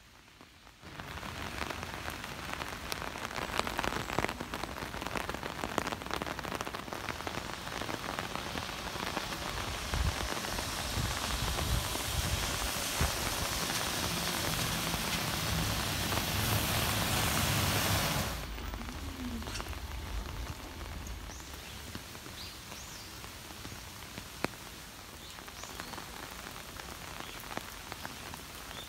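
Rain falling: a steady, dense hiss that starts abruptly, heaviest with a low rumble underneath in the middle, then drops suddenly about two-thirds of the way through to lighter rain with scattered individual drops ticking.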